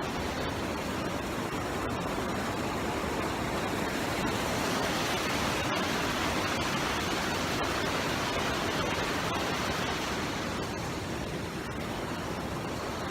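Waterfall rushing steadily, a constant wash of falling water.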